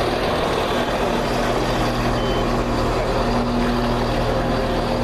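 Class 170 Turbostar diesel multiple unit idling at the platform: a steady engine hum with low, even tones.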